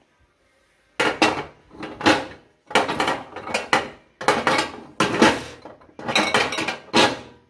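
Repeated clattering and rattling as the hard parts of a microwave turntable are handled and knocked together, in a run of short noisy bursts starting about a second in.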